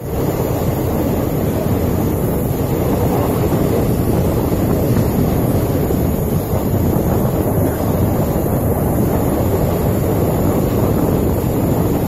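Steady rush of wind buffeting the microphone over the rumble of a passenger train's coaches running at speed, heard from an open coach doorway.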